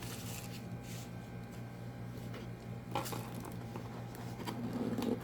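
Faint handling of an unboxed device and its packaging: a few light clicks about halfway through and a soft rustle near the end, over a steady low electrical hum.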